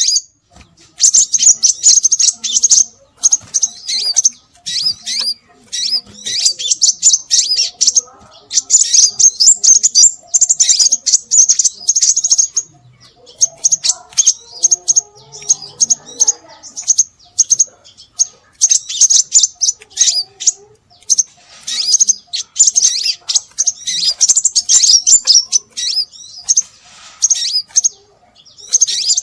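Scarlet minivet (sepah raja) calling: rapid, high-pitched chirps in dense runs of a few seconds, separated by short pauses, repeating without letup. This is a lure-call recording.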